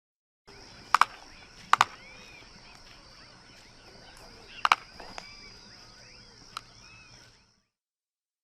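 Field recording for the jabiru stork: a few sharp clicks or knocks, two of them doubled, over a steady high hiss and faint calls of other birds, cutting off about seven and a half seconds in.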